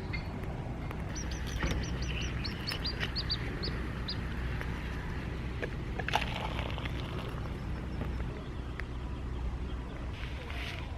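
A small bird sings a quick run of about a dozen short, high chirps that step slightly down in pitch, over a steady low rumble.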